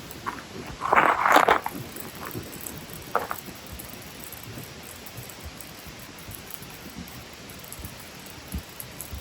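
Wood campfire burning with a steady soft hiss and scattered crackles, a louder crackling burst about a second in and a short sharp pop near three seconds.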